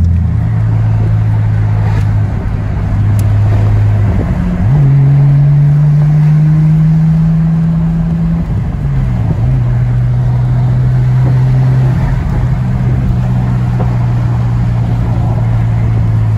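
Nissan Skyline R34's straight-six engine running while driving, heard from inside the cabin: a steady drone that rises in pitch about four seconds in and drops back around nine seconds, then holds steady.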